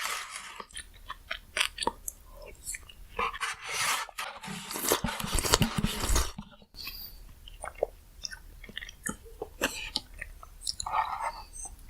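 Close-miked eating sounds: a person chewing a mouthful of bingsu, with a louder stretch of dense crunching in the middle, then scattered soft mouth clicks.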